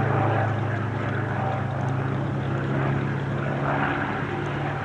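Piston engine of a P-51D Mustang, a Packard Merlin V-12, running in a steady propeller drone.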